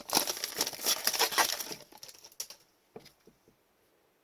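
Foil wrapper of a hockey card pack crinkling and tearing as it is opened, for about two seconds, then a few faint ticks of cards being handled.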